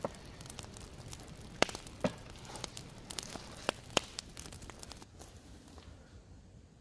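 Campfire crackling, with a handful of sharp irregular pops over a low hiss; it quiets down near the end.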